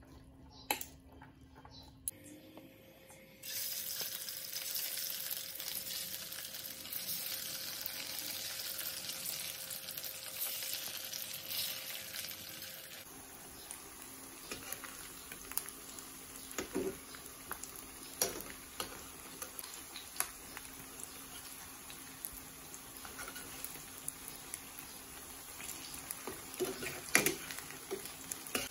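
Slices of meatloaf frying in hot oil in a non-stick pan, sizzling steadily from about three seconds in. Sharp clicks and scrapes of a metal spatula turning the slices come now and then, the loudest near the end.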